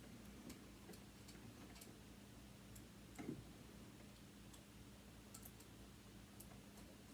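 Faint, scattered small clicks and ticks of tools and metal parts being handled while a sewing machine motor is taken apart, with one soft knock a little past three seconds in.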